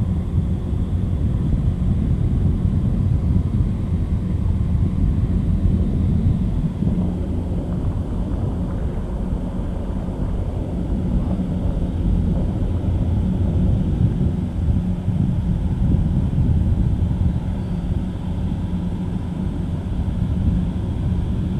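Deep, steady drone of a river towboat's diesel engines running close by, with a constant low hum in it.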